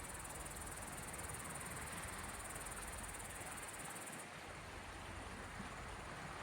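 Steady hiss of small sea waves on the Gulf of Finland shore, with a high, fast insect trill over it that cuts off about four seconds in.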